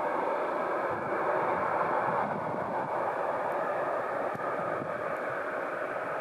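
Steady roar of jet airliner engines, swelling slightly about two seconds in.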